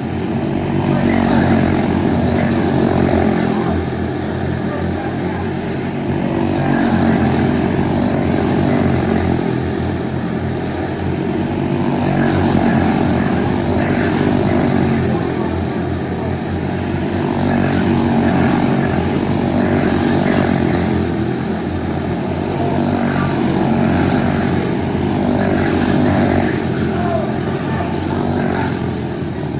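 Small single-cylinder quarter midget race car engines running laps on a short oval. The sound swells and fades about every five to six seconds as the cars go round.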